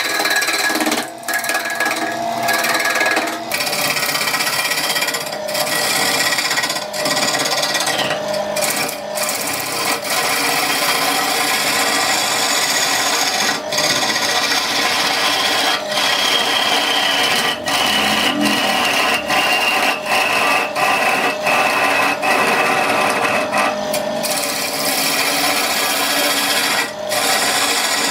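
A power tool working wood, running continuously with its whine sagging slowly in pitch under load and briefly dropping away a dozen or so times.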